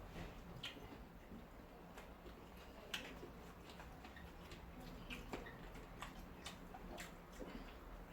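Quiet eating at a table: a few scattered light clicks, as of metal cutlery against plates, over faint room noise.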